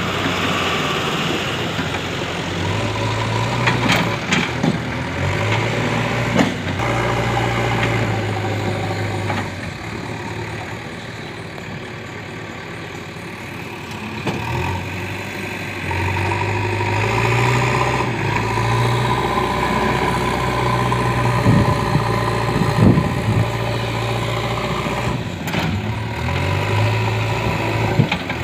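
JCB 3DX backhoe loader's diesel engine running, twice rising to a heavier working note and settling back between, with a few sharp knocks.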